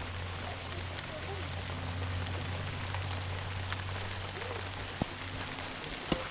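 Rain falling on plastic sheeting stretched over a canvas tent: an even hiss with a few sharper ticks, over a low steady rumble.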